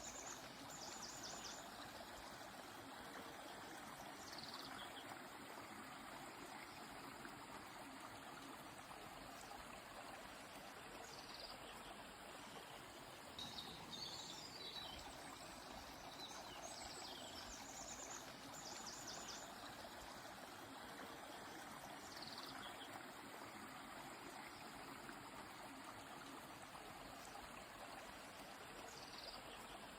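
A river flowing steadily, with birds calling now and then over it: short high chirps, quick trills and falling whistles every few seconds.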